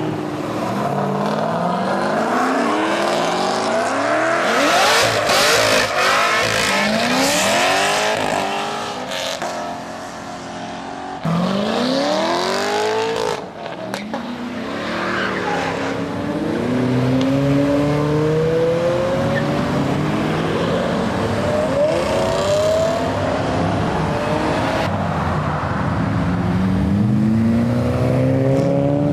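Several muscle cars revving hard and accelerating one after another, each engine's pitch climbing and falling through the gears. The engines overlap throughout, and the sound changes abruptly twice in the middle.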